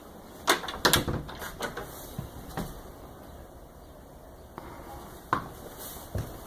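Scattered knocks and clunks: a cluster in the first three seconds, then two more near the end.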